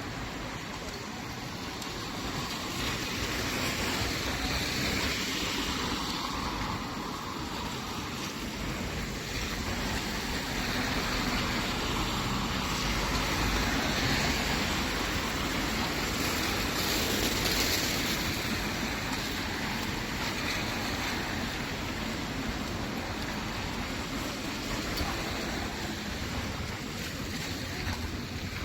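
Steady outdoor background noise of a rainy street: a wash of rain and traffic on wet road, swelling several times as vehicles go by.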